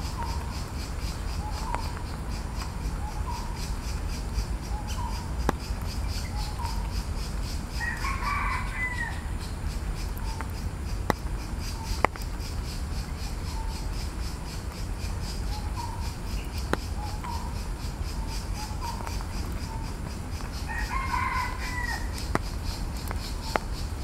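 Birds calling: faint short calls about once a second, and two louder, longer calls of about a second each, one about a third of the way in and one near the end. A few sharp clicks sound here and there over a steady low rumble.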